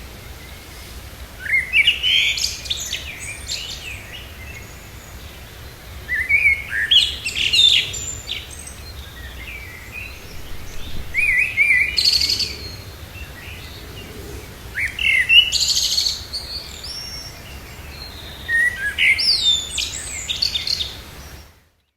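Small songbirds singing and chirping in short bursts of quick, high, gliding notes, about five bursts a few seconds apart, over a faint steady background hum; the sound cuts off just before the end.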